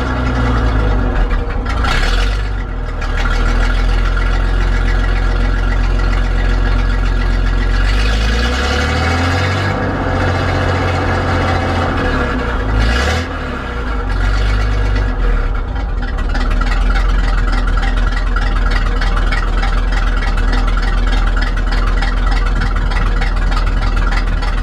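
1961 GMC truck's V6 engine running, its speed dipping and picking up again about eight seconds in and once more around thirteen seconds.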